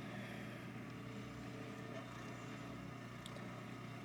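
A faint, steady mechanical hum with a low drone, like an engine or motor running at an even speed.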